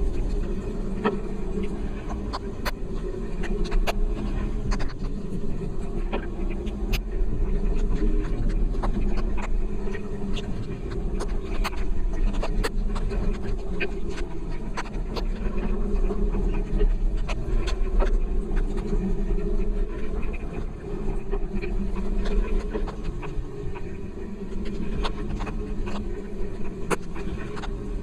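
Steady low rumble of travel over the road, with many irregular ticks from light raindrops striking the rain cover over the microphone.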